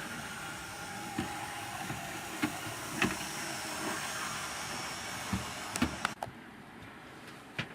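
OO gauge model locomotive running on the layout's track: a steady electric motor whir and hiss with scattered sharp clicks from the wheels on the rails. The sound drops to a fainter level about six seconds in.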